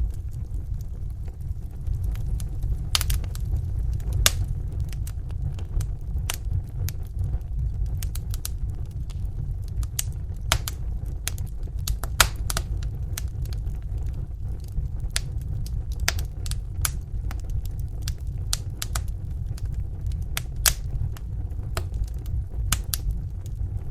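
Wood fire burning in a fireplace: a steady low rumble of flames with sharp crackles and pops at irregular intervals, a few of them louder.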